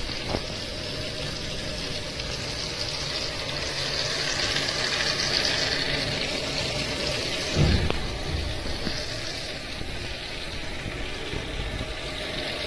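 Steady rain falling, a continuous hiss with no let-up. A brief low thump about eight seconds in.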